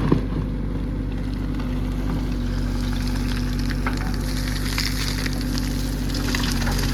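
Diesel engine running steadily at an even low pitch, with a crackling hiss over it.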